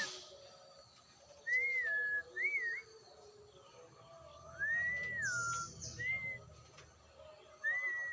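A bird whistling in short phrases of clear, sliding notes: a long rise-and-fall followed by a quick wavering pair. A full phrase comes about one and a half seconds in, another near five seconds, and a third starts near the end.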